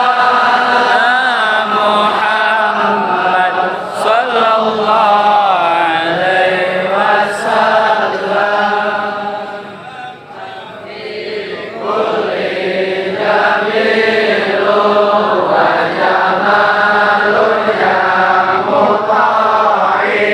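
Voices chanting shalawat, Arabic praises of the Prophet, in a sung melodic line. The chanting dips briefly about ten seconds in and picks up again about two seconds later.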